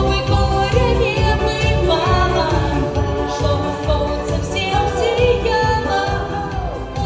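Solo voice singing a pop song over a recorded backing track with a steady beat, with long held notes that waver and slide in pitch.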